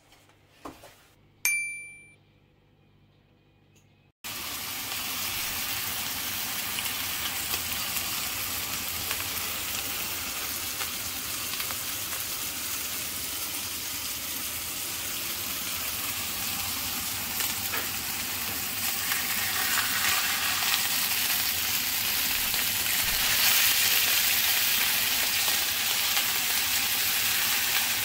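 A couple of short clinks, then from about four seconds in, food sizzling steadily in a hot frying pan, growing a little louder in the second half.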